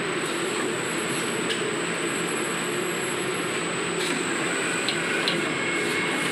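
Steady industrial machinery running, a constant rushing hum with a thin high whine over it and a few faint clicks.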